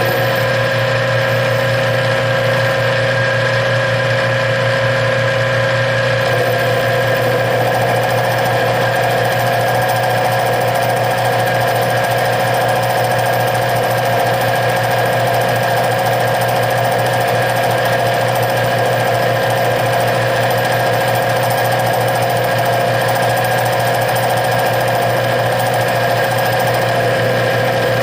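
Metal lathe running steadily as it turns a piece of aluminum stock, a constant motor hum with steady tones over it; the sound changes about six seconds in.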